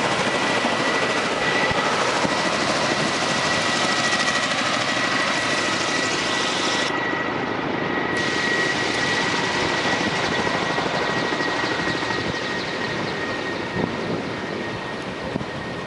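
Firefighting helicopter's rotor and turbine running steadily, with a constant high turbine whine over the rotor noise. The sound slowly fades over the second half.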